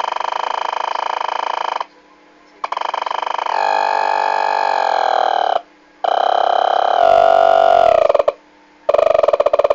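Harsh electronic buzzing drone, noise-music style, stopping dead and restarting three times. Its pitch slides down in places, and it turns into a fast pulsing buzz near the end.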